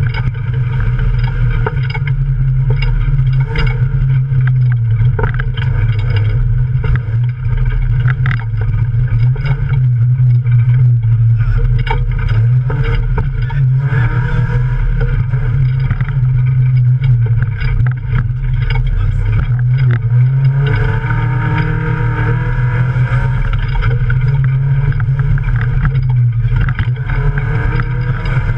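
Off-road race car engine running hard under load, heard from inside the cabin, with frequent short knocks as the car jolts over rough ground. About twenty seconds in, the engine revs up with rising pitch, and it does so again near the end.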